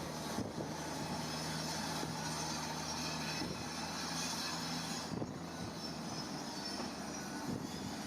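Heavy earth-moving machinery at work: a diesel engine running steadily, with a few scattered knocks.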